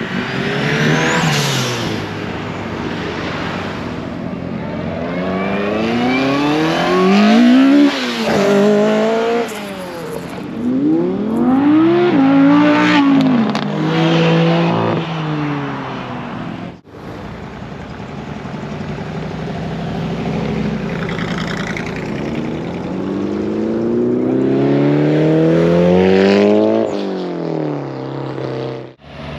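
Classic cars pulling away one after another, their engines revving up through the gears: each engine note rises and then drops sharply at a shift, several times over.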